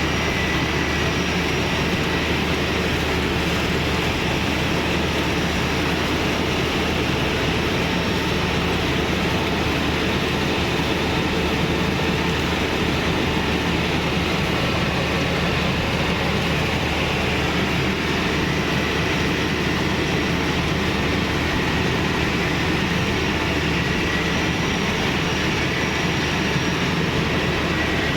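Bimo Plus mobile rice thresher running steadily at work, a constant, unbroken machine noise.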